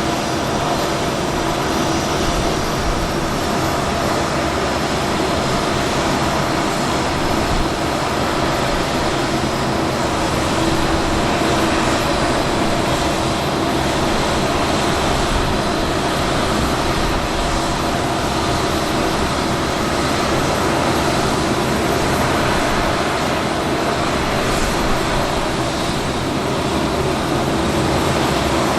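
Boeing C-17 Globemaster III's turbine engines running steadily on the ground: a constant loud rush with a few steady whining tones, holding level without spooling up or down.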